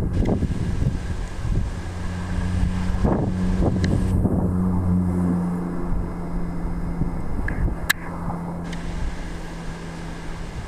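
Wind rumbling on the microphone, with a steady low engine hum that fades away near the end and a sharp click about eight seconds in.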